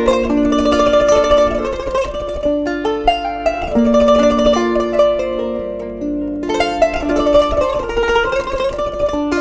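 Kanun, the Turkish plucked zither, playing a melody of plucked notes, several ringing over one another.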